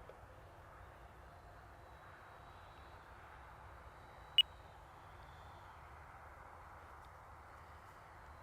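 Faint, distant whine of a 64mm electric ducted-fan RC jet flying at low throttle on approach. About halfway through there is a single brief, sharp high-pitched tick.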